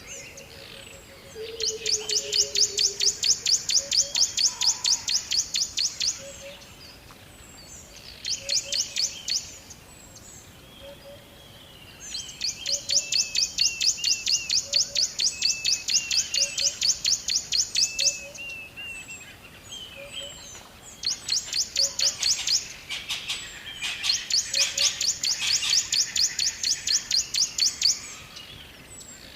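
Birds chirping in bouts of very rapid, high trills a few seconds long, with softer warbling notes between them. A faint low note repeats about once a second underneath.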